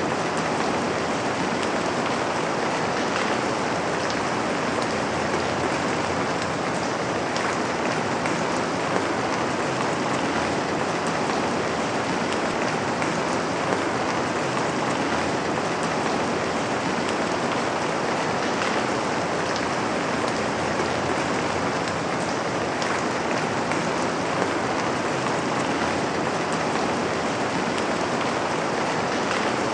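Rain falling steadily, an even hiss of drops that does not change.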